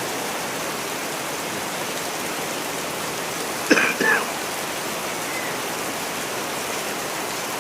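Steady rain falling, an even hiss. About halfway through, a brief sharp double sound, two quick strikes a fraction of a second apart, rises over it.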